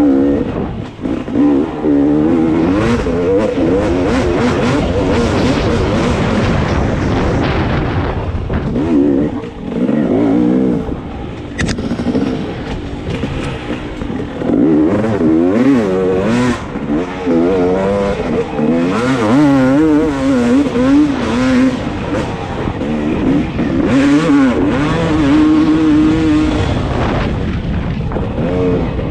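Dirt bike engine running hard while being ridden, its revs rising and falling over and over as the throttle is worked and it shifts.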